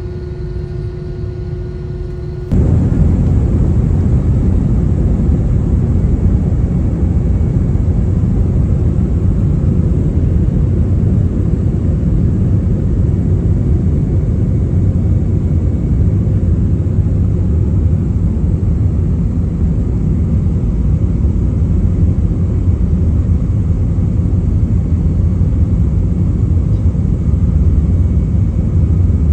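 Airbus A321-200 cabin noise heard from a passenger seat. A quieter hum with a steady tone gives way about two and a half seconds in, abruptly, to a loud, even, low rumble of engines and airflow that holds steady.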